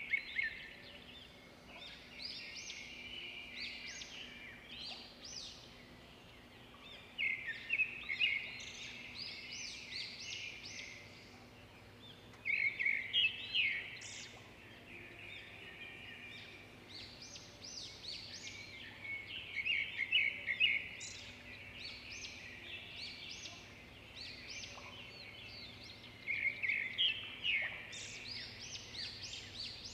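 A songbird singing: a phrase of rapid chattering notes with higher sweeping notes, repeated about every six or seven seconds over steady outdoor background noise.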